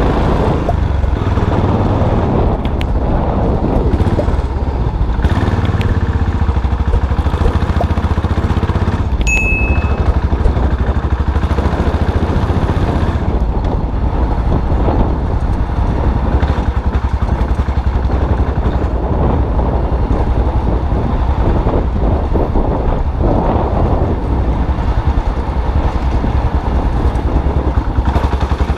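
Custom classic motorcycle engine running steadily under way, a continuous low rumble, with a brief high beep about nine seconds in.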